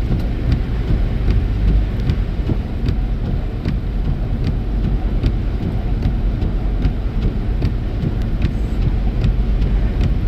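Steady low road and engine rumble inside a car moving along a snowy road, with faint clicks now and then.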